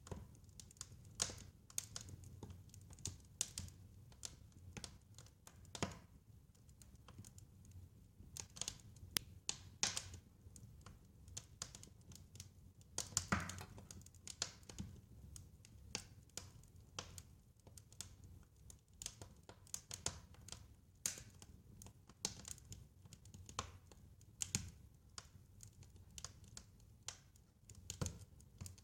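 Fireplace fire crackling: irregular sharp pops and snaps of varying loudness, several a second, over a low steady rumble of the flames. A louder snap comes about halfway through.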